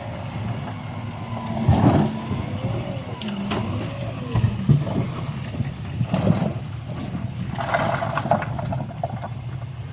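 Heavy diesel earthmoving machinery running steadily under load, with metallic clanks and knocks about two, four and a half and six seconds in. There are wavering squeals early on and a rattling clatter near the end.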